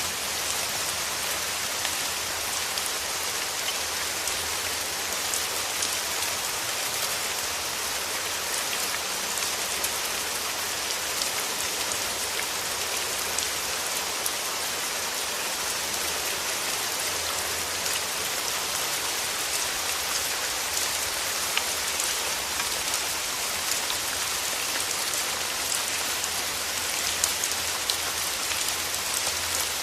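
Steady rain falling through forest trees, an even hiss with many small drop patters on leaves.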